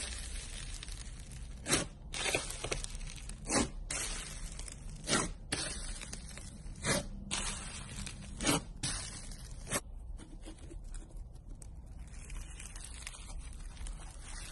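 Slime being squeezed and pressed, crackling with a sharp pop about every second and a half. The pops stop about ten seconds in and the handling goes on more softly.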